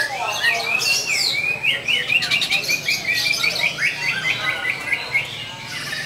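Small green cage birds singing: a run of quick swooping chirps that speeds up into a rapid, even series of repeated notes, stopping shortly before the end.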